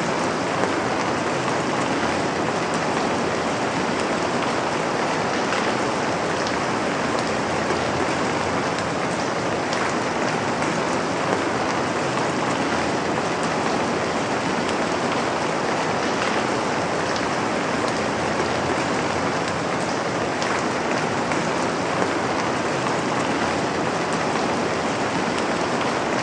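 Steady rain falling, an even hiss with scattered drop ticks and no let-up.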